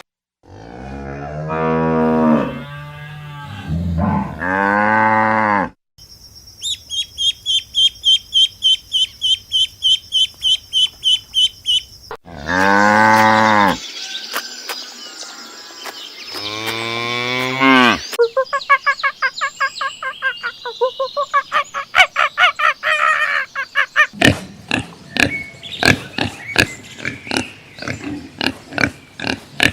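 Animal calls in quick succession: long, low, drawn-out cattle moos near the start and again about halfway through, with a fast run of high chirps between them. After them come a rapid chattering call and then a quick series of sharp clicks toward the end.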